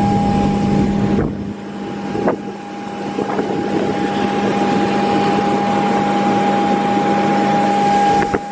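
Airliner cabin noise: a steady rush with a constant hum, its low rumble dropping away about a second in.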